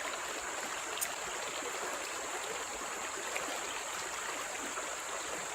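Steady rush of a forest stream flowing over rocks, with a constant high-pitched hiss above it and a single faint click about a second in.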